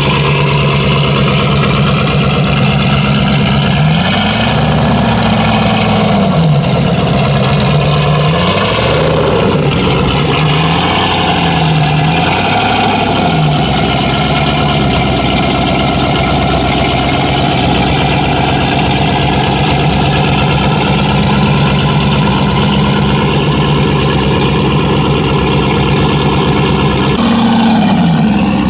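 Drag-racing S10 truck's engine idling loudly. Its pitch rises and falls several times early on, then holds steady, with a brief dip near the end.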